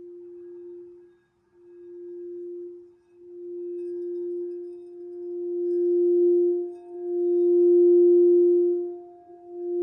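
Heart chakra crystal singing bowl being played around the rim, giving one steady pure tone with a fainter overtone an octave above. The tone swells and fades in waves every second or two and grows louder toward the end.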